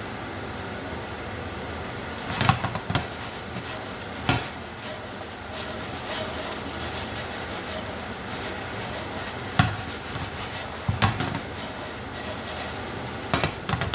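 Chicken pieces frying in oil in a skillet with a steady sizzle, and a utensil knocking against the pan about five times as the pieces are stirred and turned.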